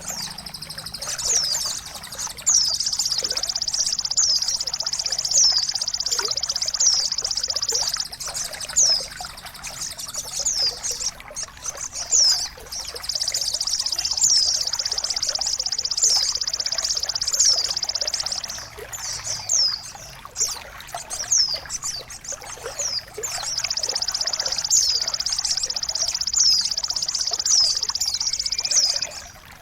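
Recorded songbird song of the kind played to train caged birds: long, high, very rapid trills lasting several seconds at a time, alternating with strings of short downward-sweeping chirps.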